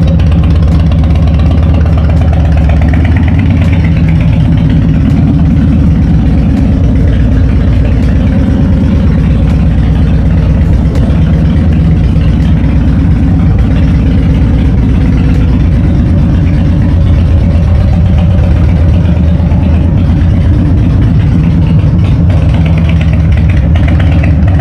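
Harley-Davidson Dyna's V-twin engine idling steadily, run after a fresh oil change.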